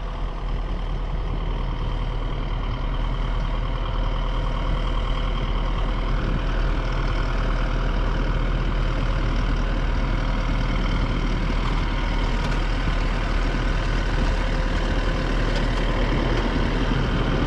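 A truck engine running steadily with a low hum, even throughout.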